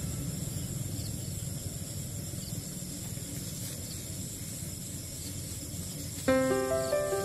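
Steady hiss with a thin, high, unbroken drone of night insects. About six seconds in, background music with clear piano-like notes comes in.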